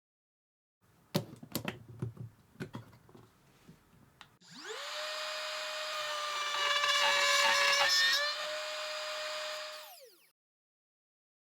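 A few knocks and clicks of wood being handled, then a small electric router spins up with a rising whine, runs at speed with a louder, rougher stretch of a few seconds as it cuts wood, then winds down and stops.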